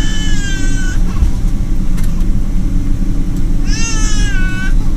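Steady low rumble of a Boeing 777 aircraft, with two high-pitched drawn-out cries over it: one at the start and one about four seconds in, each lasting about a second.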